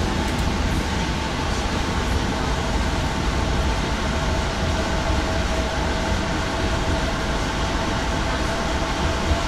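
Regional passenger train running at speed, heard from inside the carriage: a steady rumble of wheels on the track with a faint steady tone over it.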